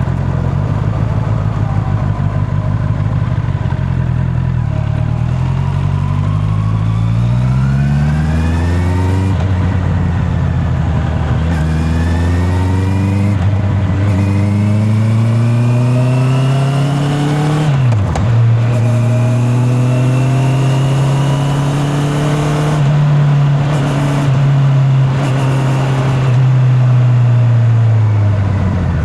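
Honda CB650R's inline-four engine accelerating through the gears, revs climbing and dropping at each upshift three times. After a brief dip in revs a little past halfway, it holds steady at cruise, then falls away as the throttle eases off near the end. Heard from a microphone in the rider's back pocket.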